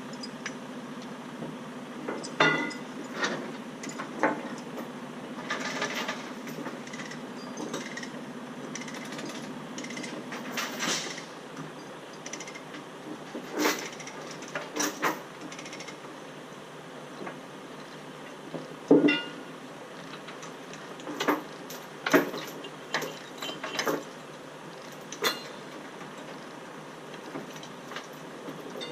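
Scattered sharp metal clanks and ratchet-like clicks at irregular intervals, the loudest about two-thirds of the way through, typical of load chains and chain binders being handled. A low steady hum underneath fades out about eleven seconds in.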